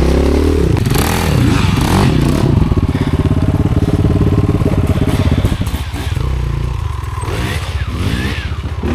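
Dirt bike engine running and being revved up and down, then settling to a lower, uneven run about five and a half seconds in.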